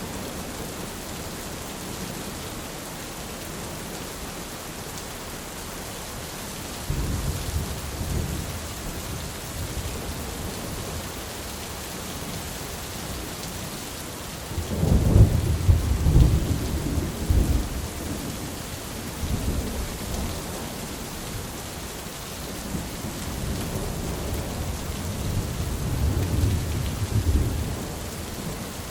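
Steady rain with rolling thunder. A rumble breaks in about seven seconds in, and a louder peal comes at around the middle. Further low rumbles follow toward the end.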